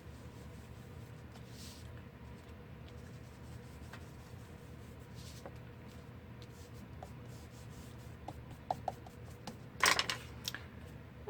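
Craft materials being handled and rubbed: faint scattered rustles and ticks over a low steady hum, with one louder rubbing rustle near the end.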